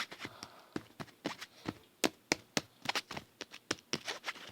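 Light, irregular clicks and taps of a handheld plastic fidget toy being worked, a few every second.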